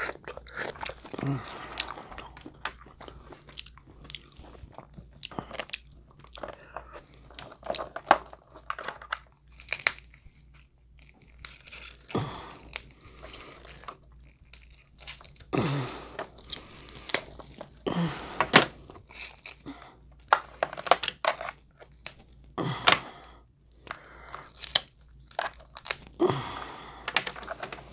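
Crab leg shells being cracked and snapped open by hand, with close-up crunching and mouth sounds; sharp cracks come at irregular intervals, several of them loud.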